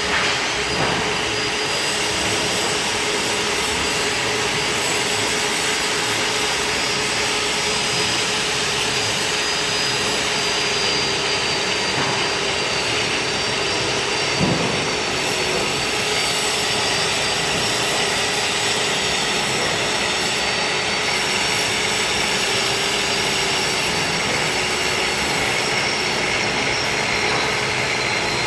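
Lathe-bed grinding machine running steadily: a continuous rushing noise with a steady whine.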